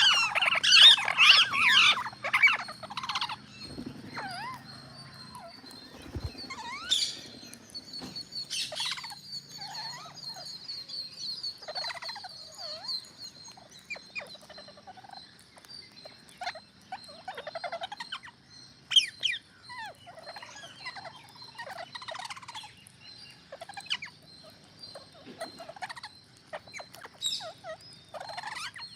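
Green parrots calling: a dense burst of loud, overlapping squawks in the first few seconds, then scattered single calls. A steady, high-pitched pulsing trill runs underneath.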